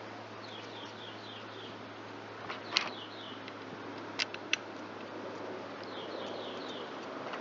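A few sharp clicks and taps, the loudest about three seconds in, from parts and tools being handled while a chainsaw is reassembled. Behind them a bird repeats short series of quick falling chirps, over a steady low hum.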